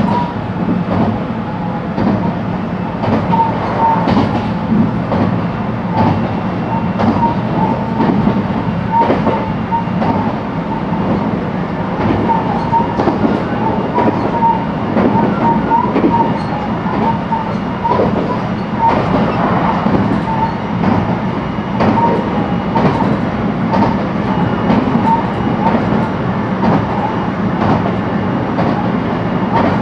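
Running sound heard inside a JR West 223 series electric train car: a steady rumble of wheels on rail with repeated rail-joint clicks. Short squeaks at a near-constant pitch recur throughout.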